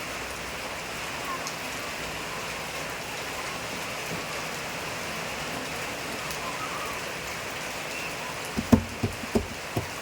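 Steady rain falling, an even hiss. Near the end comes a quick run of about five low thumps, the loudest sounds here.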